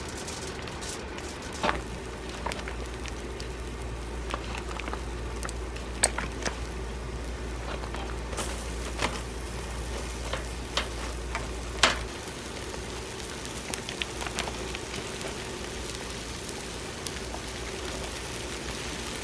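Steady rain hissing and pattering, with scattered sharp pops and crackles, the loudest about six and twelve seconds in. A low hum runs under it from near the start until about twelve seconds in.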